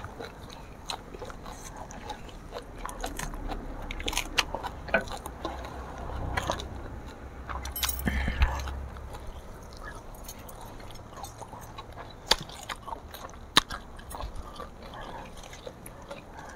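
People eating by hand: chewing and crunching food, with scattered sharp clicks, and a low rumble for about three seconds midway.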